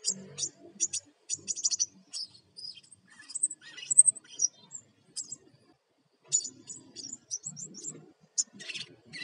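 Crimson sunbird (sepah raja) in full, energetic song: a fast chatter of short, high, thin chirps in dense bursts, with a brief pause a little past halfway before the chatter starts again.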